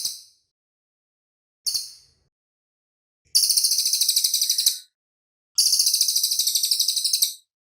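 Cililin songbird singing high, rapid trills: a short burst about two seconds in, then two long trills of about a second and a half each, their notes repeated about ten times a second.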